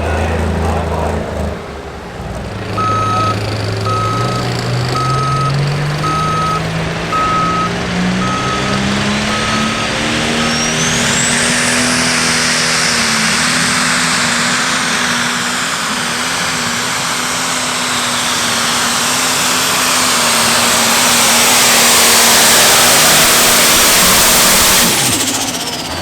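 Light pro stock pulling tractor's turbocharged diesel engine going to full throttle on a pull: the engine pitch climbs over several seconds as a turbo whistle rises to a shrill scream. It then runs flat out for about fourteen seconds, growing louder toward the end, before the throttle is cut near the end and the turbo whine falls away. A steady electronic beeping repeats under the engine during the first part of the run.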